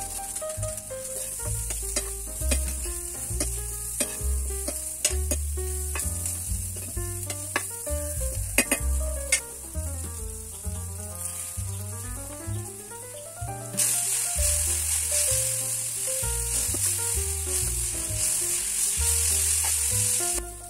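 Chopped vegetables sizzling in a frying pan, with a few sharp knocks of stirring against the pan in the first half. The sizzle grows louder and fuller about two-thirds of the way through. Background music with a melody and bass line plays throughout.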